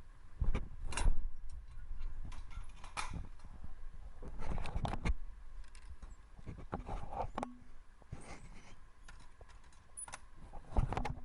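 Irregular handling clatter: scattered knocks, clicks and rustles of objects being moved about, with a louder cluster about halfway and another near the end.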